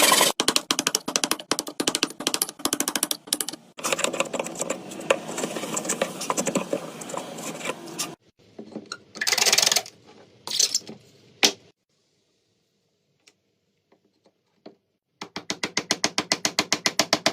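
Hand woodworking work: rapid clicking and scraping strokes on wood, a few separate short bursts, a pause, then fast regular ratcheting clicks, about six a second, near the end.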